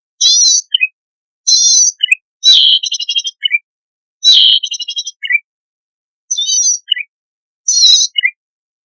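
Cici padi (cisticola) song played as a bird lure: short, high buzzy phrases repeated every second or so, each followed by a couple of lower chips. Two longer rapid rattling trills come about two and a half and four seconds in.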